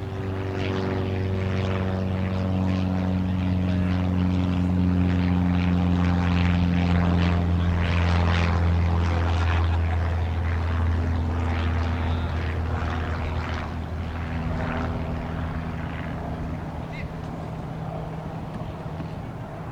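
Propeller aircraft flying over: a steady low engine drone that grows louder, peaks, then fades away with a slight drop in pitch as it passes.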